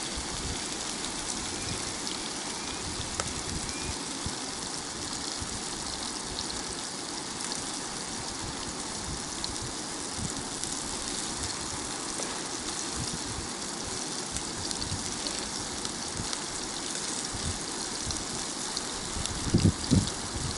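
Flour-coated rotan fish frying in oil in a pan, a steady sizzle. A few short low thumps come near the end.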